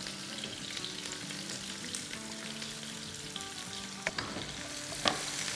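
Sliced onion, garlic and green chillies sizzling in hot oil in a wok, a steady frying hiss. Two sharp taps about a second apart near the end.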